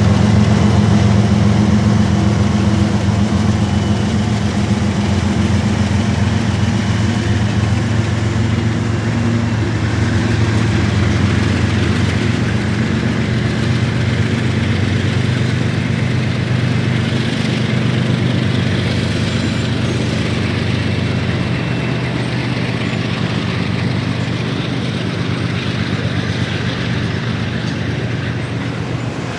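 Diesel freight locomotives working under power: a steady, heavy engine drone that slowly fades over the stretch.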